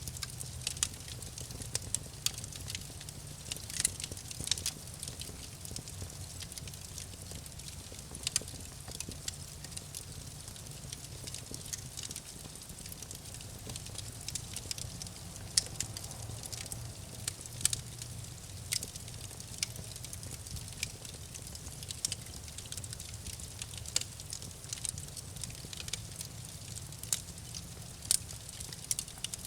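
Campfire crackling: irregular sharp snaps and pops from the burning wood, a few of them louder, over a steady low hum.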